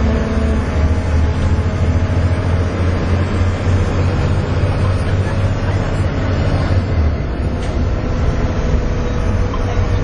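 Volvo B7TL double-decker bus's six-cylinder diesel running hard under load, heard from inside the bus as a loud, deep drone over road and body noise. The drone eases a little about seven seconds in.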